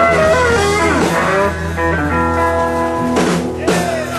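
Live electric blues band playing an instrumental passage: lead guitar with bent notes over bass and drums, with a drum and cymbal hit about three seconds in.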